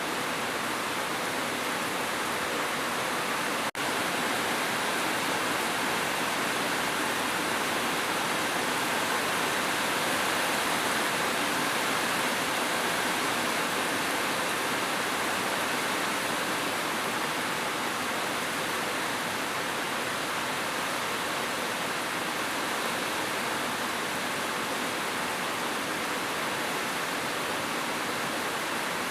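Steady, dense rainfall hiss, with a momentary dropout about four seconds in.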